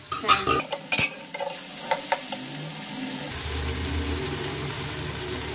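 Vegetables frying in a pan, uncovered and stirred. There are a few sharp clacks of lid and spatula against the pan in the first two seconds, then a steady sizzle.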